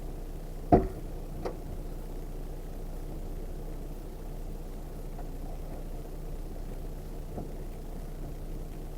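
Vehicle engine running steadily at a low, even speed, with one sharp knock under a second in, a lighter knock shortly after, and a faint one near the end.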